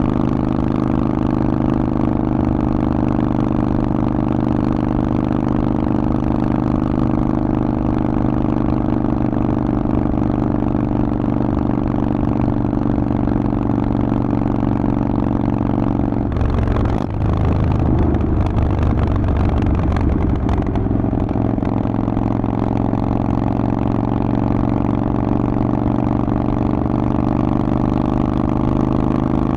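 Harley-Davidson Forty-Eight's 1200 cc V-twin running through a Vance & Hines exhaust at a steady speed on the move. About seventeen seconds in the note breaks with a brief dip and a few seconds of heavier, rougher rumble before it settles back to a steady pitch.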